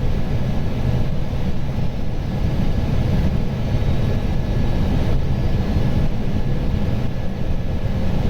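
Steady rumble of airflow and engine noise inside an Airbus A320 flight deck on final approach, with a faint high steady whine above it.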